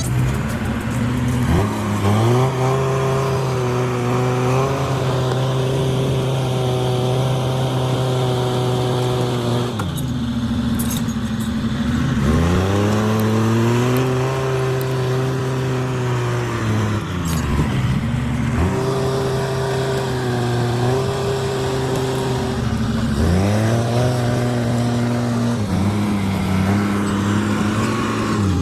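Timberjack skidder's diesel engine revving up and holding a high, steady note for several seconds, then dropping back, about five times over as it works.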